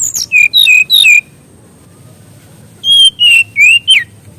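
Fulvous-chested jungle flycatcher (SRDC) singing: a quick run of four clear whistled notes, each dropping in pitch, then after a short pause a second run of four quavering whistles. A faint steady high-pitched whine sits underneath.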